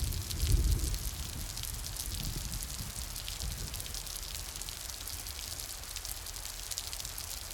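Steady rain falling, a dense patter of many small drops. A low rumble in the first second dies away, leaving the rain alone.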